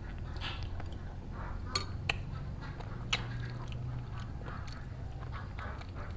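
Close-miked chewing and biting of spicy chicken feet with soft bones, wet mouth sounds with three sharp clicks between about two and three seconds in.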